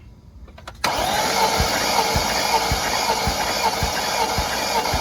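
BMW M62TU V8 being cranked on its starter motor without starting for a compression test, beginning about a second in: a steady starter whine with a regular beat roughly twice a second. The cylinder under test (passenger-side number 4) reads only about 110, far below the others, a sign of a badly worn or damaged cylinder.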